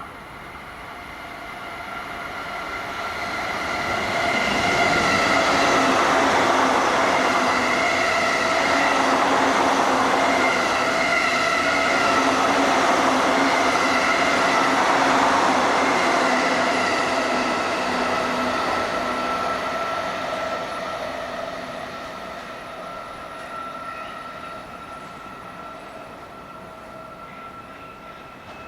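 Electric train passing at speed: it grows louder over a few seconds, runs loud with a steady whine over the rumble of wheels on rail, then slowly fades away.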